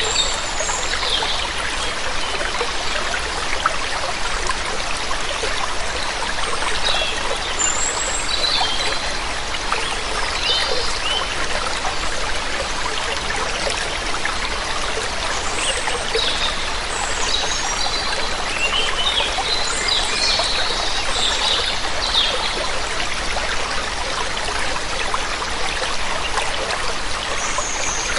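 Steady rush of falling and running water from a waterfall, with small birds chirping over it now and then, most often in the second half.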